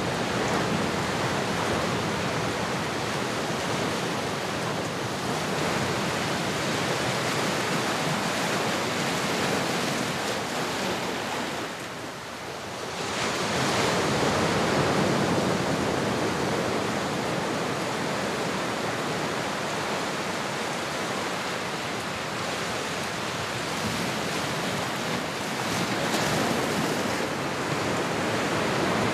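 Recorded ocean surf: a steady rush of waves, with a brief lull about twelve seconds in before the next wave swells up.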